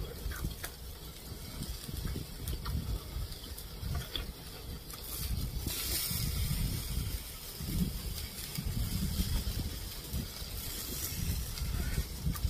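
Close-miked chewing and mouth sounds of someone eating a mouthful of food from a spoon, with a few light clicks of the utensil and a short scraping hiss about five seconds in.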